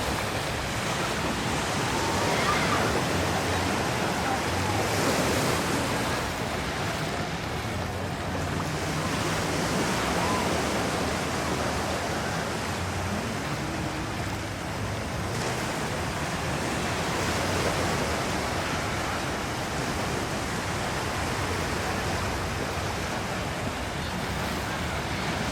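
Gulf Coast surf washing onto a sandy beach: a steady rushing wash that swells a little now and then.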